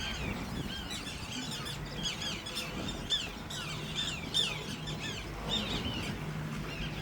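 River tern chicks calling: many short, high chirps, each falling in pitch, overlapping several to a second. They are crying for a parent that has not come.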